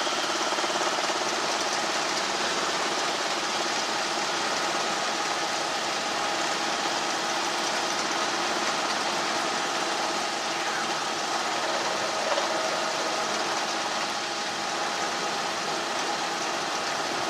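Helicopter engine and rotor noise, a steady drone with a faint constant whine, heard through the cockpit intercom.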